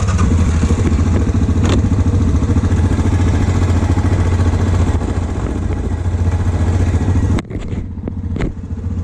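Quad bike engine idling with a steady, fast pulse. About seven and a half seconds in, the sound drops suddenly to a quieter, thinner level.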